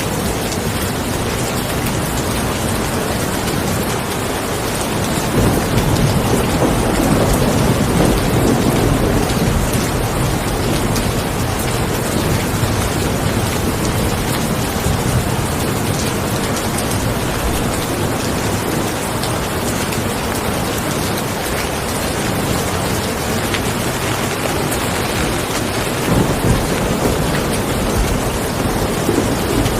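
Steady rain falling. A low rumble swells in about five seconds in and eases off by about ten seconds, with another brief swell near the end.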